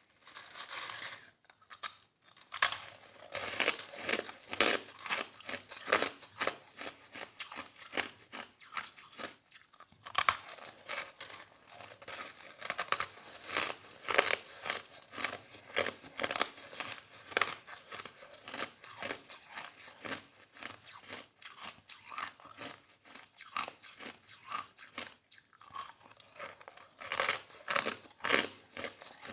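Crushed ice being bitten and chewed close up, a dense run of soft, irregular crunches one after another.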